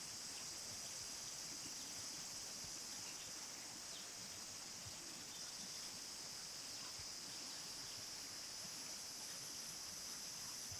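Insects singing in a steady, high-pitched chorus, with no pauses.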